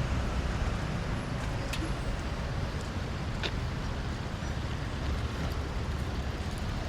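City street ambience: a steady rumble of road traffic, with two short clicks, one about two seconds in and one about three and a half seconds in.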